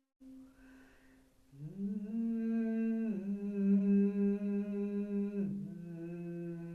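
A voice humming long, steady low notes, sounding the toning of a sound-healing session. It begins after a soft breath, slides up into the first note, then steps down in pitch twice.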